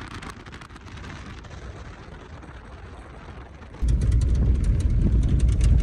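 Car driving, a steady low road rumble; nearly four seconds in it switches abruptly to a much louder low rumble scattered with small crackling clicks.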